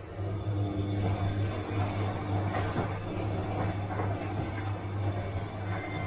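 Bosch washing machine running: a steady low motor hum with a fainter higher tone and a swishing noise over it, growing louder at the very start.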